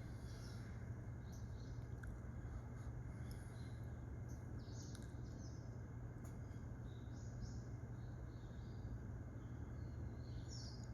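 Short, high bird chirps come at scattered moments over a steady background of low hum and noise.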